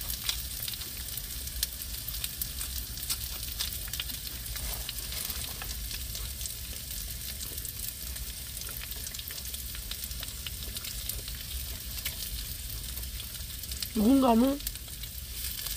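Food, likely beef, sizzling in a hot pan: a steady crackling hiss with many small pops.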